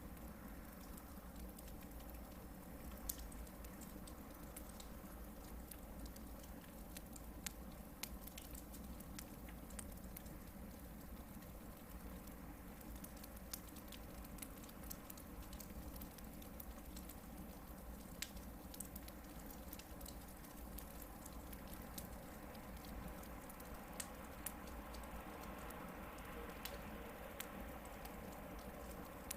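Hardwood campfire burning, with scattered crackles and pops over a steady low hiss of the flames.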